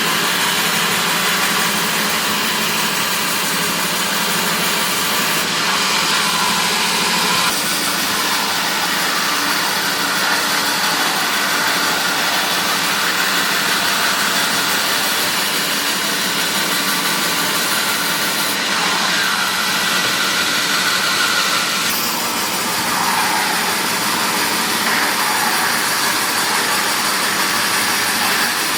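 Woodworking machinery running steadily, a loud continuous mechanical hum and hiss whose tone shifts abruptly a couple of times.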